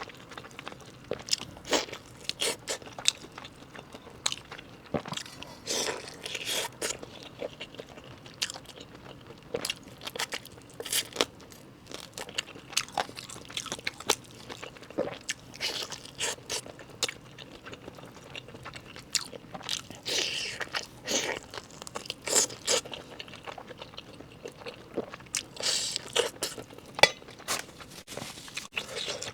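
Close-miked eating of a large roasted chicken leg: many irregular crunchy bites and chewing sounds.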